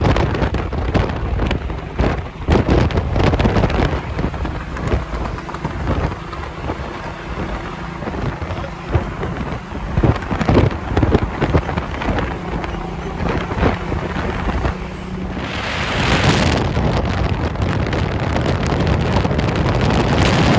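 Wind buffeting the microphone in irregular gusts over a low rumble of vehicles, turning into a steadier rushing hiss in the last few seconds.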